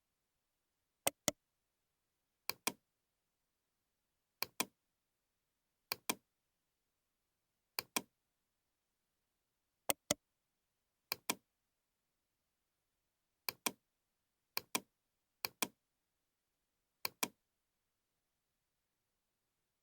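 Computer mouse button double-clicking, about eleven sharp double clicks at uneven intervals of one to two and a half seconds, with dead silence between them.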